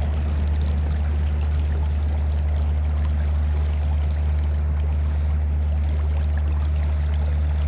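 Steady rushing of a flowing trout stream, an even wash of water noise with a strong low rumble underneath.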